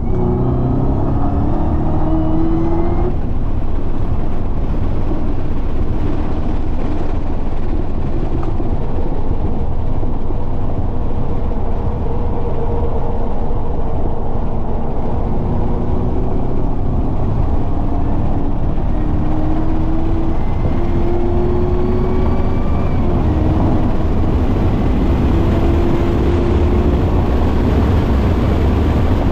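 Chevrolet Camaro ZL1 1LE's supercharged 6.2-litre V8 running hard on a race track, its note climbing several times as it pulls through the revs, over a constant rush of wind and road noise.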